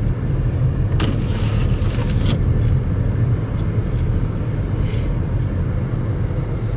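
Steady low rumble of a car driving, heard from inside the cabin, with a few brief faint ticks about one, two and five seconds in.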